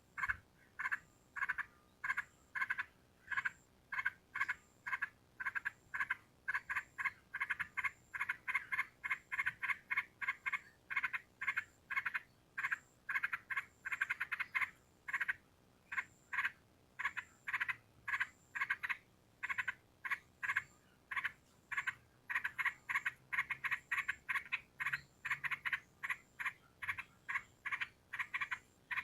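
Yellow-vented bulbul (trucukan) giving a long run of short, rapid chattering notes, several a second, thicker in some stretches than others.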